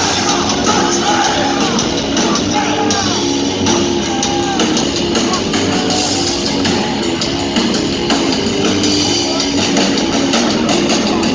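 Hard rock band playing live and loud: distorted electric guitars, bass and drums.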